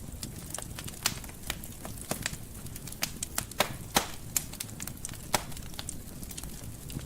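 Wood fire crackling in a fireplace: irregular sharp pops and snaps, several a second with a few louder ones, over a low steady rumble of the flames.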